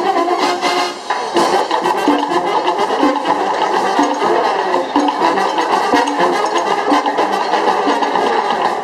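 Marching band playing: a brass melody over a steady drum beat.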